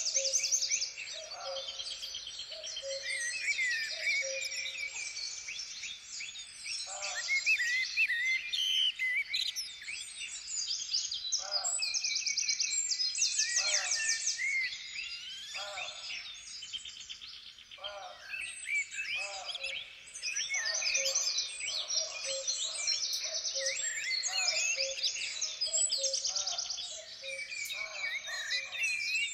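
Many songbirds chirping and singing at once, a dense chorus of overlapping high trills and chirps, with some shorter, lower calls among them.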